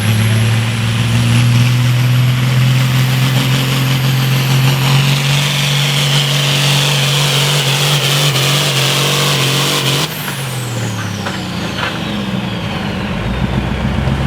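Turbocharged diesel engine of a John Deere hot farm pulling tractor running hard under load, with a high turbo whine climbing. About ten seconds in, the throttle is cut: the engine note drops and the whine falls steeply away as the pull ends.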